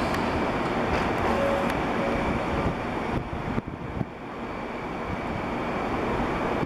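JR West 221 series electric train rolling along the station tracks, a steady rumbling noise, mixed with wind on the microphone; it dips briefly about three seconds in, with a few sharp clicks.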